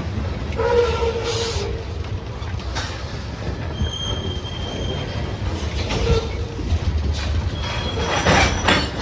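Norfolk Southern freight train rolling past with a steady low rumble, its wheels squealing briefly several times at different pitches, with a few sharp clanks.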